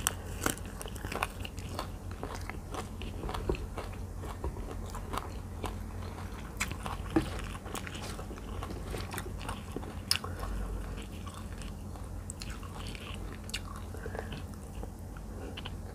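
Close-up mouth sounds of a person eating spicy minced tilapia larb with sticky rice by hand: steady chewing with scattered small crunches and clicks.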